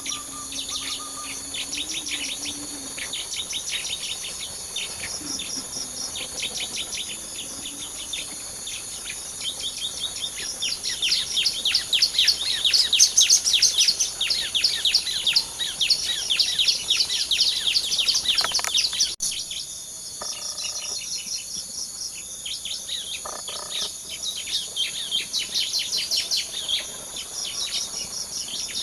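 Small birds chirping in fast, high, repeated trills over a steady high insect drone. The chirping grows louder partway through, then drops back after a sharp click.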